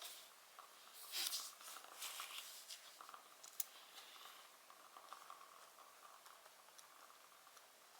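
Faint wood fire crackling in a fireplace: a soft steady hiss with scattered small pops. A louder brief burst of noise comes about a second in, and a single sharp pop about three and a half seconds in.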